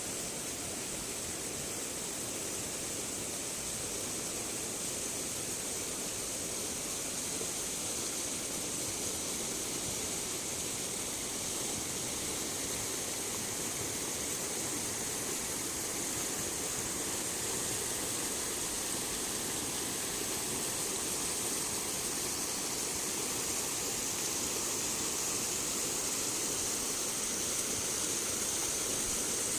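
Flowing water rushing steadily, with a strong high hiss and no breaks.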